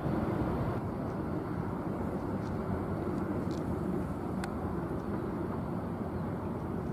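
Jet airliner engines, a steady rumble that holds at the same level throughout.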